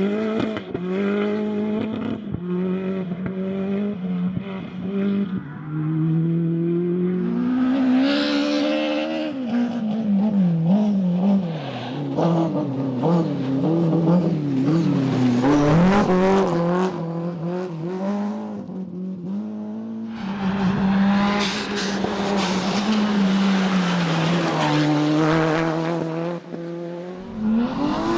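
Rally car engines at full throttle on a special stage, revving hard and shifting through gears, the pitch repeatedly climbing and dropping. The sound changes abruptly about two-thirds of the way in and again near the end.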